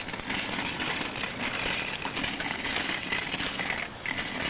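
A child's bike rolling over pavement, its wheels and frame rattling with a steady stream of small clicks, easing off briefly near the end.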